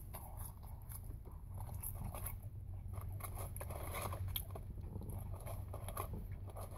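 A person chewing a mouthful of fast food close to the microphone, with many small, irregular crunches, over a low steady hum.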